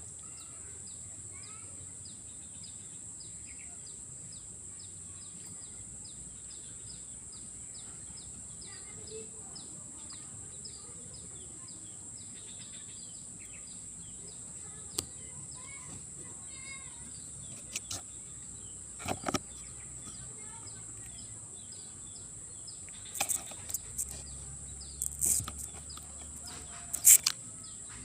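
Outdoor swamp ambience: a steady high insect drone, a run of short repeated chirps about three a second, and scattered bird calls. In the second half come a few sharp clicks and knocks, the loudest near the end.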